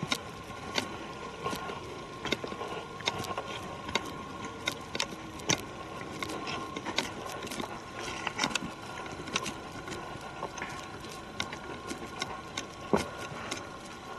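Footsteps on a forest trail: irregular crunching and snapping of leaves and twigs underfoot, over a faint steady hum.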